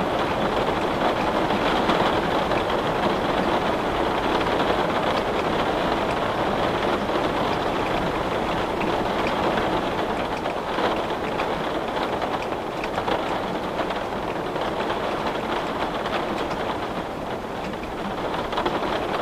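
Steady rain falling against a window: a dense, even hiss with faint scattered taps, easing slightly after about ten seconds.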